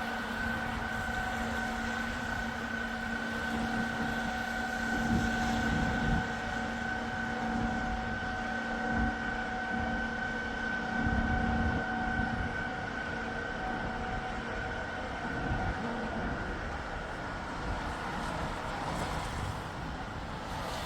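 Wind gusting and buffeting the microphone in heavy rain. Under it runs a steady mechanical hum with a high whine, which fades out in the second half.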